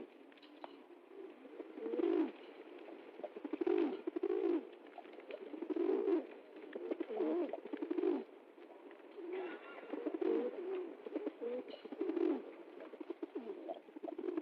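Pigeon cooing, a run of low, wavering coos repeated about every two seconds.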